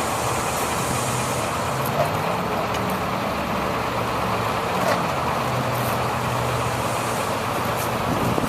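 2002 International mechanics truck's engine running steadily, with a few faint clicks.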